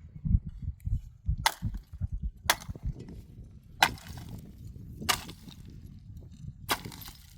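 Firewood being chopped: five sharp chops, a second or so apart, over a low rumbling noise.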